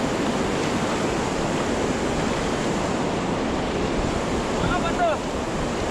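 Steady rush of river water running through the rapids, with a brief faint voice about five seconds in.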